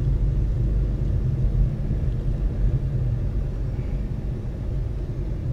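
Steady low rumble of a car's engine and tyre noise, heard from inside the cabin while driving on a snow-covered highway.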